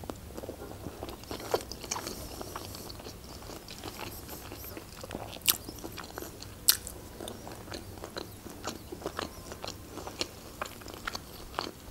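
Close-miked chewing and mouth sounds of a person eating noodle soup, with scattered sharp clicks and smacks, a few of them much louder than the rest.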